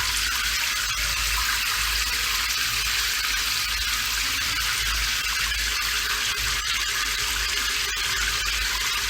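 Steady rain falling, an even hiss that does not let up, with a low rumble underneath.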